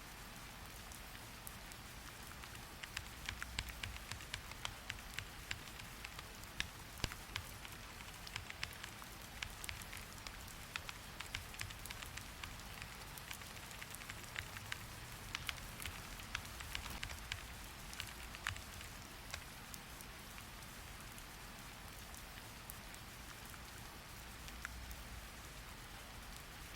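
Steady rain hiss with a long run of quick computer-keyboard typing clicks through the middle stretch, easing off well before the end.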